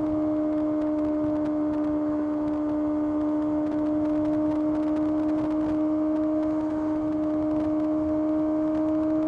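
Kawasaki ZX-6R's inline-four engine running at a steady, unchanging pitch under constant throttle while riding.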